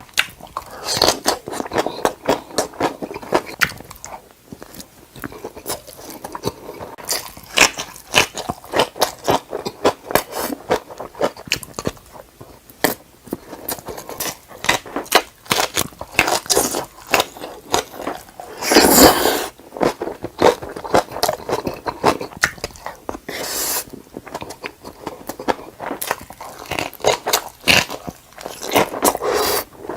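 A person chewing and biting food, with a dense run of irregular crunches and wet clicks. About nineteen seconds in there is a longer, louder noisy sound lasting about a second.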